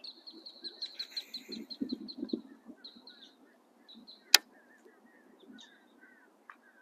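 Birds singing outdoors: a rapid high trill of evenly repeated notes for the first couple of seconds, then scattered short chirps. A few soft low thuds come about two seconds in, and a single sharp click comes about four and a half seconds in.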